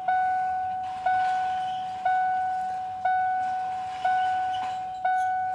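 Ford Power Stroke pickup's dashboard warning chime ringing steadily about once a second with the key on, each ding fading before the next, while the diesel's glow plugs heat before a cold start.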